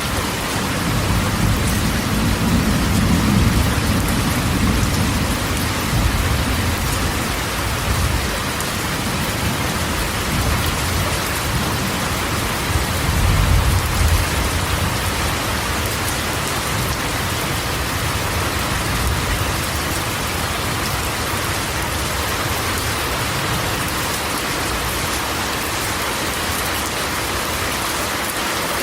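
Rain falling steadily on a corrugated tin roof, with low rolls of thunder in the first few seconds and again about halfway through.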